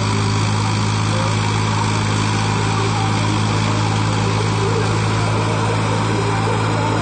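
Sonalika tractor's diesel engine running steadily at a constant speed, with an even low drone.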